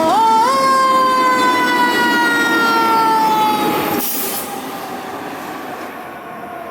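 Fire engine's mechanical siren winding down in a slowly falling wail. It is pushed back up in pitch just after the start, then keeps falling until it cuts off about four seconds in with a short hiss, leaving quieter truck engine and road noise.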